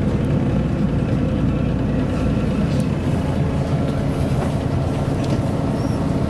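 MAN A23 articulated city bus under way, heard from inside: a steady diesel engine drone holding an even pitch, with road rumble.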